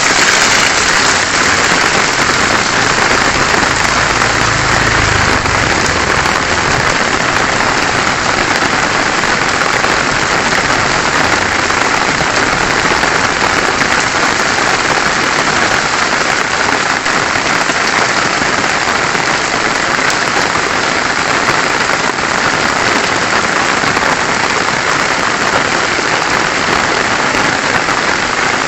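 Heavy, steady rain falling on surfaces, an even hiss of drops, with a faint low rumble about four to six seconds in.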